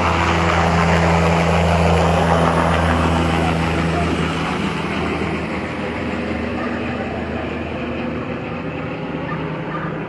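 Medical transport helicopter running loud and steady, its engine and rotor noise slowly fading as it flies away. Its low steady tones drop out about halfway through.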